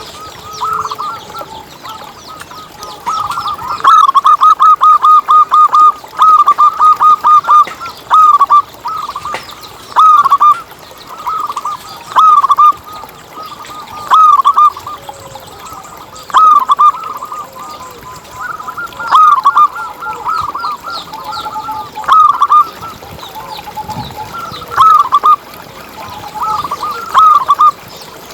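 Zebra doves (perkutut) cooing in repeated phrases of short, quick notes. A fast run of notes comes a few seconds in, then shorter bursts every couple of seconds, with fainter cooing between them.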